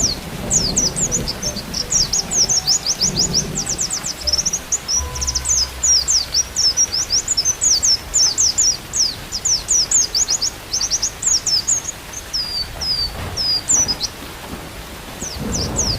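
White-eye (pleci) song: a near-continuous, rapid high-pitched twittering of short quick chirps. A low rumble of rain sits underneath, strongest in the first few seconds.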